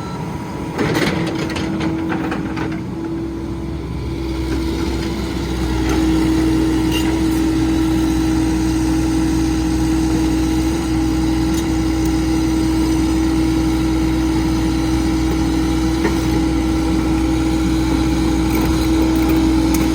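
Heavy machine's engine running steadily, with a constant whine over a low hum. It grows louder about six seconds in, and a few short knocks sound near the start.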